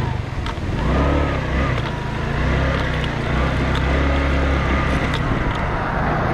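Motorcycle engine pulling away and accelerating, its pitch rising and falling several times, over steady wind and road noise.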